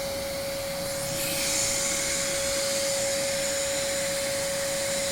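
AmazonBasics 1400 W wet and dry vacuum cleaner running steadily, its motor giving a steady whine over a loud rush of air. About a second in, the hiss brightens and then holds.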